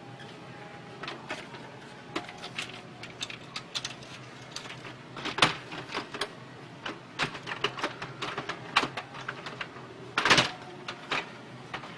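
Irregular clicks and knocks of plastic and metal printer parts being handled during a repair, loudest a little past halfway and again near the end, over a steady low hum.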